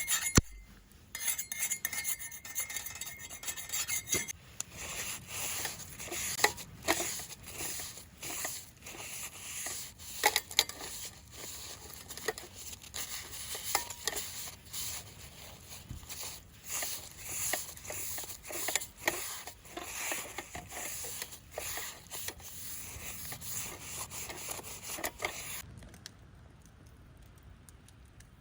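Camp cookware and utensils clinking, rubbing and scraping in irregular handling, which stops abruptly near the end.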